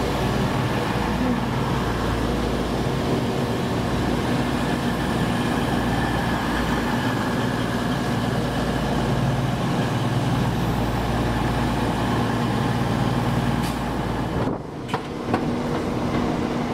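A train's steady running drone at a station, with a low hum through it, stopping abruptly about fourteen and a half seconds in. A few sharp clicks and knocks follow near the end.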